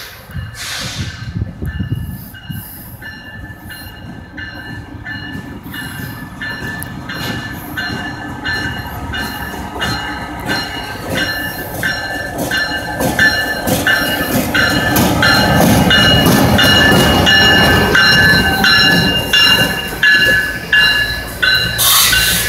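Freight train led by CSX diesel locomotive 2004 passing close by. The engine rumble and the rolling wheels grow louder as it draws level, with some wheel squeal. A grade-crossing bell rings steadily the whole time.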